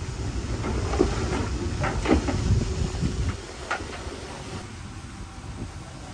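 Heavy earthmoving machinery running with a low diesel rumble and several sharp metallic clanks and knocks. The rumble drops away after about three seconds, and one more clank follows.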